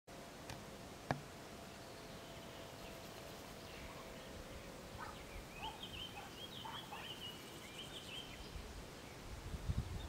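Distant birds calling: a run of short, jagged chirpy notes in the middle, over quiet outdoor ambience. A single sharp click comes about a second in, and a low rumble near the end.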